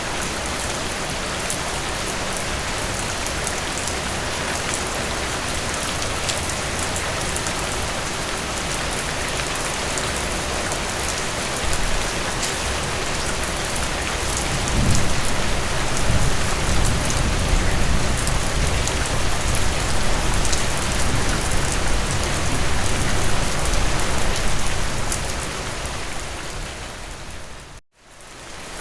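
Steady rain, with individual drops ticking through it. About halfway through, a low rumble of distant thunder builds and rolls on for some ten seconds. Near the end the whole sound fades out briefly and comes back.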